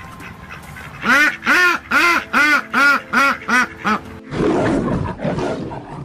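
Ducks quacking: a run of about eight loud, evenly spaced quacks, each rising and falling in pitch. About a second of rough, noisy sound follows near the end.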